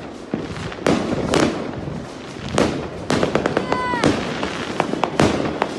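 Fireworks and firecrackers going off: a rapid, irregular run of sharp bangs over a continuous crackle. A short whistling tone sounds about two-thirds of the way through.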